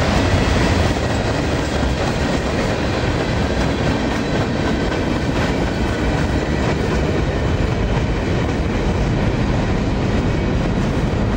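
Freight train rolling past at close range: a steady rumble and clatter of steel wheels on the rails.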